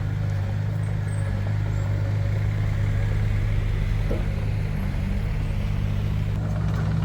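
Heavy construction machine's diesel engine running steadily with a low drone.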